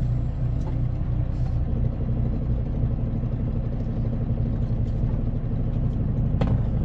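Semi truck's diesel engine idling steadily, with one sharp click near the end.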